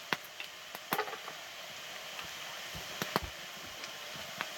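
Calabresa sausage and bacon frying in their own fat in a pan, with a steady sizzle. A few sharp clicks or pops break through, about a second in and twice near three seconds in.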